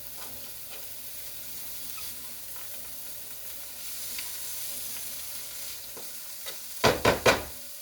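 Chopped vegetables frying in sesame oil in a pan: a steady sizzle with the faint scrape and tick of stirring. Near the end comes a quick run of loud knocks.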